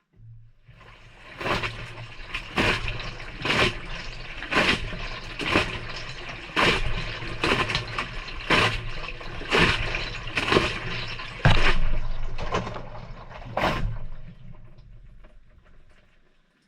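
Maytag front-loader drum tumbling the wash through water on a delicate cycle: the motor hums as clothes lift and splash down about once a second. The drum then slows and stops, and the splashing dies away near the end.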